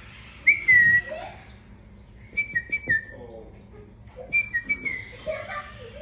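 Baby canary chick giving short, high chirps and whistle-like notes while being hand-fed. The loudest is a slurred, slightly falling note about half a second in, followed by clusters of quick chirps.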